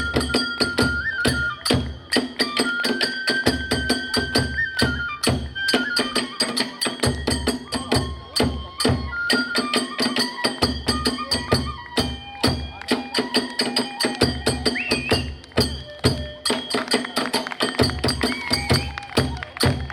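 Kagura hayashi ensemble playing fast: a bamboo flute (fue) carries a held, slightly wavering melody over driving taiko drum beats and rapid clashing of small hand cymbals (tebyōshi).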